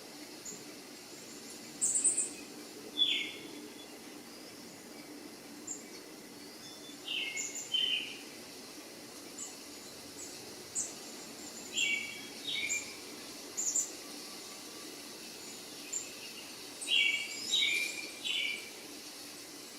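Birds chirping in short separate calls every second or two, some in quick clusters of two or three notes, over a faint steady low hum.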